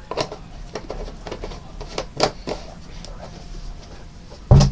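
Objects being handled and set down on a desk: scattered light clicks and knocks, then one loud thump near the end as something is put down.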